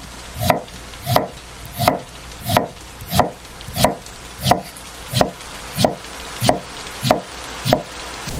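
A knife chopping on a wooden cutting board in steady, even strokes, about three every two seconds, each with a hollow knock.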